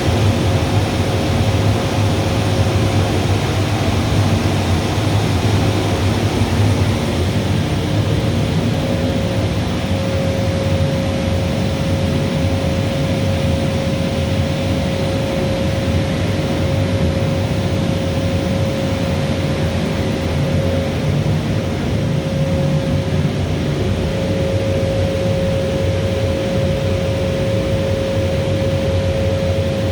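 Steady, loud running noise of the Bosch steam boiler plant, most likely its burner firing, with a deep rumble and one constant whining tone throughout.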